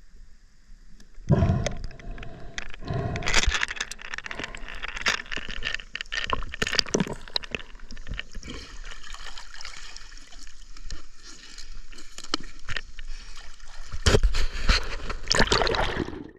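Water gurgling and splashing close to the microphone, with irregular scrapes and knocks. There are louder bursts about a second in and again near the end, and the sound cuts off sharply.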